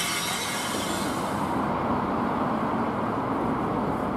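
Railway noise: a bright hiss from the train alongside the platform, then, about a second and a half in, a steadier lower rumble of a diesel locomotive approaching in the distance.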